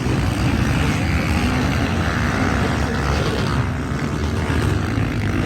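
Motocross bike engines running as riders race around the dirt track, a steady, loud engine drone.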